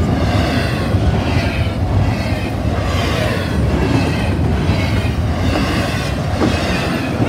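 A train rolling past at a grade crossing: a steady low rumble with wheels clattering over the rails, and a high ringing that swells about once a second.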